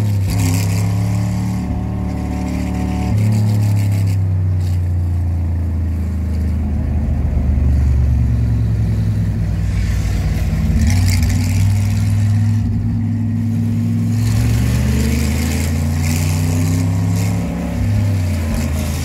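Racing-car engine heard from the driver's seat, running at moderate revs, its pitch rising and falling with throttle and gear changes. A rushing noise above the engine comes and goes.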